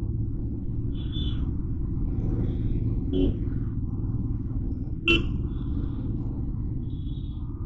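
Motorcycle riding: a steady low rumble of engine and wind noise, with a few short high beeps over it, the loudest about five seconds in.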